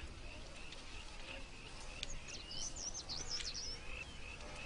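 Bush ambience: a bird sings a quick run of high, sweeping up-and-down notes about halfway through, over a steady repeated chirp that keeps up throughout.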